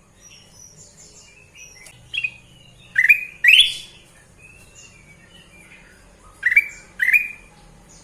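Kutilang emas bulbul singing in short, clear whistled phrases: one about two seconds in, a louder pair around three and a half seconds, and another pair near the end, with fainter chirps between.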